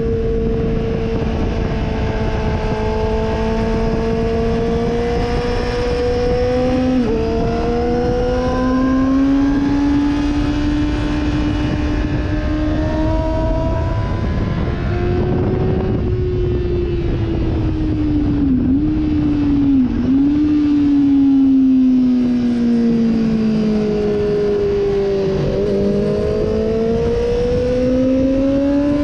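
Sportbike engine heard onboard at speed on a race track, its pitch climbing through the revs with a gear change about seven seconds in, easing off and falling through the middle with two short dips, then rising again near the end. Heavy wind noise runs under it throughout.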